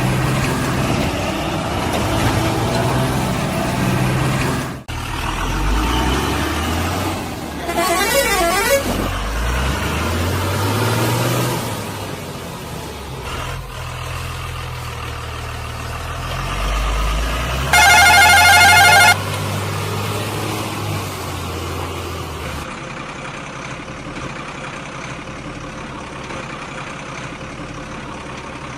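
Heavy vehicle engine running and revving, its pitch rising and falling several times, with a loud horn blast of about a second about two-thirds of the way in. It settles to a steady lower hum near the end.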